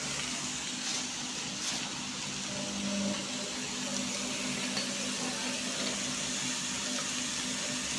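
Steady hiss of vegetables, chicken and egg cooking in a hot pan, with a low steady hum under it and a few faint ticks.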